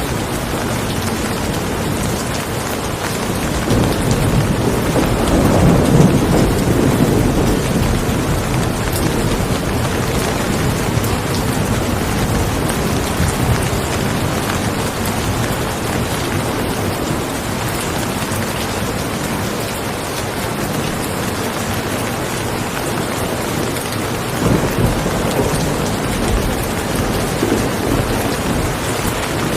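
Steady heavy rain with rolling thunder: a low rumble swells about four to eight seconds in and again more softly near the end.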